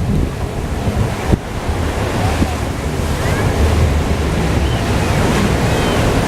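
Wind rumbling on the microphone over the wash of waves, with a single brief click about a second in.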